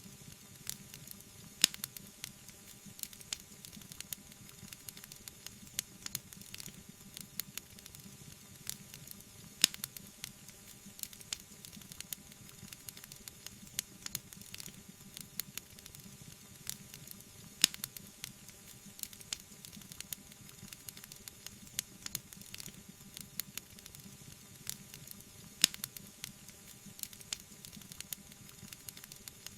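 Wood fire burning with a steady hiss and many small crackles, and a few sharp, louder pops, about one every eight seconds.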